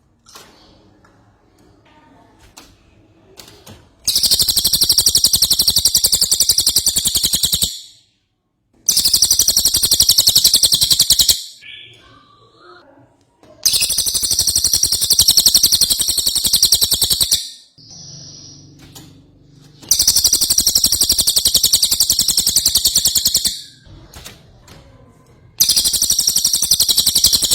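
Cililin songbird singing vigorously in long, very rapid, high-pitched trills, five bouts of three to four seconds each with short pauses between.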